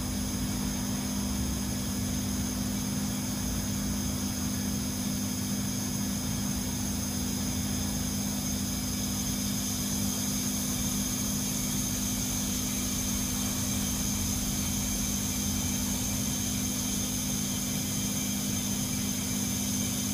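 LG Multi V mini outdoor air-conditioning unit running steadily: a low hum with a steady high-pitched whine over it.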